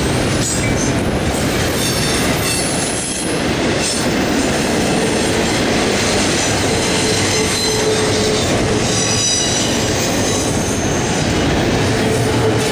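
CSX intermodal freight train's double-stack container well cars rolling past close by in a loud, continuous rumble, with the wheels squealing in thin steady tones that come and go.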